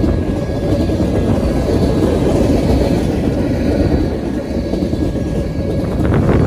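Freight train's tank cars rolling past close by: a steady rumble and clatter of steel wheels on the rails, with a brief sharper sound near the end.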